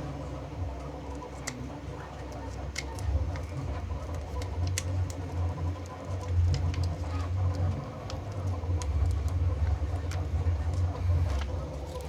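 Scattered small clicks and scratches of a weeding hook picking cut heat transfer vinyl off its backing, over a steady low machine hum that grows a little stronger about three seconds in.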